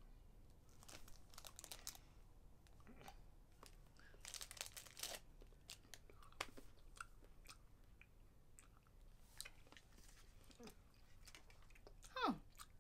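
Quiet chewing of a chocolate-coated edible insect snack, with scattered small crunches as it is bitten and chewed.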